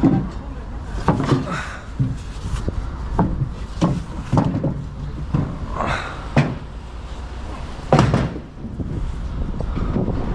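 A series of irregular knocks and bangs, about a dozen, the loudest about eight seconds in, over a steady low wind rumble on the microphone.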